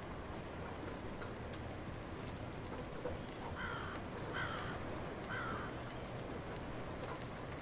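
Steady light rain with scattered drips, and a bird calling three times in quick succession in the middle.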